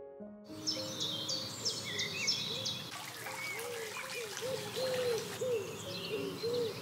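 Birds calling outdoors over a soft background hiss: quick high chirps in the first couple of seconds, then a run of short, low call notes repeating a few times a second.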